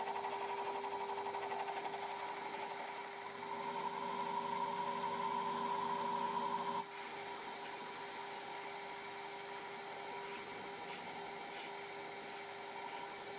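Metal lathe running with a steady whine while a CBN insert takes an interrupted cut on the work-hardened seal surface of a diff yoke. The cutting sound grows louder about three seconds in and stops abruptly around the middle, leaving the lathe running on its own.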